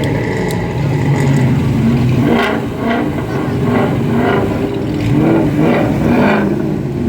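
Car engine idling, then revved in a quick series of short blips, about two a second.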